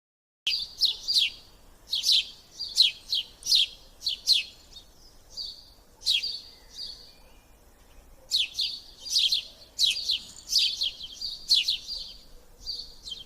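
Bird chirping: quick, downward-sweeping chirps in short runs, with a lull of about two seconds just past the middle.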